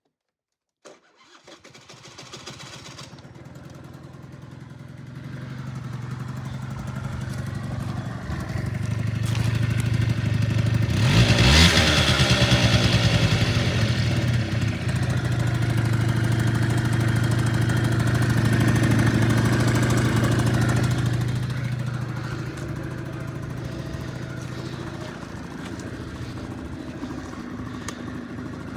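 Honda Dio two-stroke scooter engine starting about a second in and running up, revving sharply around twelve seconds in, holding a higher speed for several seconds, then dropping back to a steady idle.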